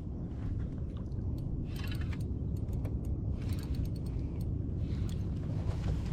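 Spinning reel being cranked in short spells while playing a hooked bass, its clicking and whirring coming and going over a steady low rumble.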